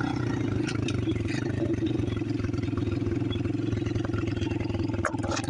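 Chinese pit bike's small single-cylinder four-stroke engine running at a steady, even speed, with a short knock about five seconds in.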